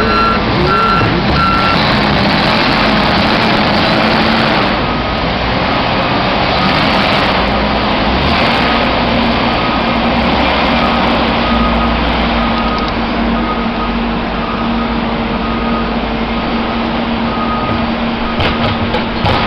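Heavy vehicle's engine running steadily with its reversing alarm beeping in a regular on-off pattern. The beeps fade out early on and start again about halfway through.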